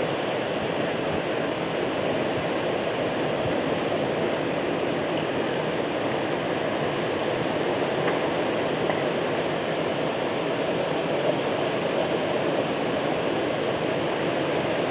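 Heavy rain falling during a thunderstorm, a steady, even hiss with no thunder.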